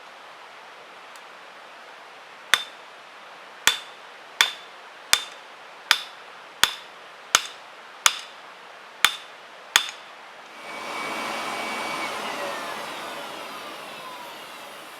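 Hand forging: ten hammer blows on metal, each ringing briefly, spaced a little under a second apart. Then a hissing rush with a whistling tone that slides down in pitch as it fades.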